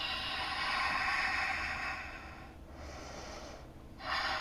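A person breathing audibly through the nose and mouth close to the microphone: a long exhale of about two and a half seconds, a short, fainter breath around three seconds in, and another breath starting near the end.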